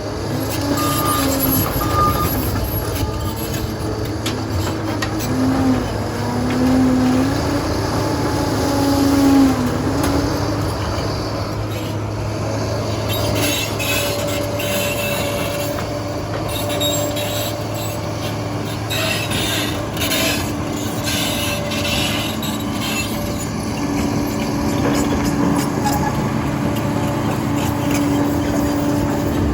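Liebherr PR 746 crawler dozer at work: the diesel engine runs steadily, its pitch rising and falling with load in the first third. Metallic clanking and squealing from the steel tracks come through the middle.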